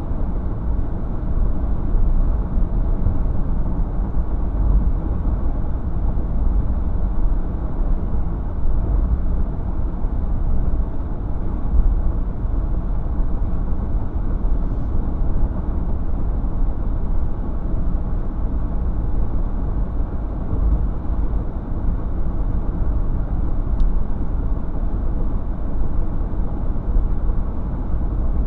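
Steady low rumble of a vehicle in motion, even throughout with no distinct knocks, horn or engine changes.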